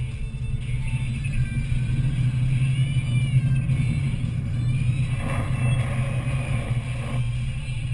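A vehicle's engine runs with a steady low drone. About five seconds in, a louder rushing noise rises over it for about two seconds, then cuts off suddenly.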